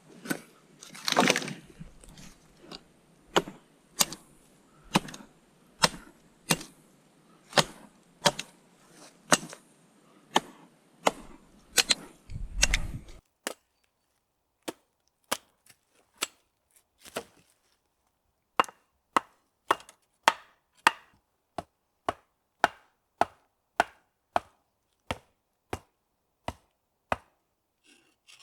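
Wood being chopped: a long run of sharp, evenly spaced strikes, about one every 0.8 seconds.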